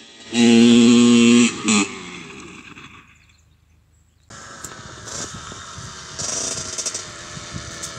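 Small motorbike engine revved and held at a steady high pitch for about a second, then blipped once briefly and let fall away. After a short quiet spell a quieter, steady engine sound with scattered clicks comes in suddenly.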